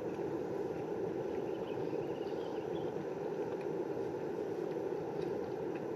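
MSR camp stove burner running steadily: an even, unbroken roar of the flame.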